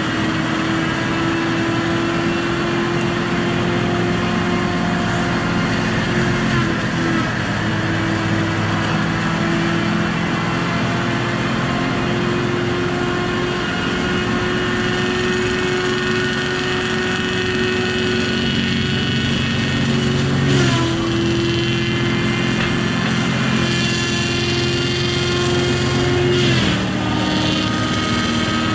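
Heavy logging machine's diesel engine running steadily, with a thin high whine alongside. The engine's pitch sags briefly three times, about a quarter of the way in, two-thirds of the way in and near the end, as if under sudden load.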